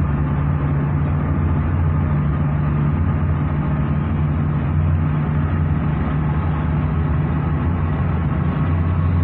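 Steady low drone of a motor vehicle's engine with a continuous road-noise rush, holding even throughout.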